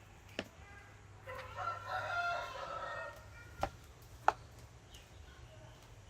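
A drawn-out animal call lasting about two seconds, with a few sharp taps before and after it over a low steady hum.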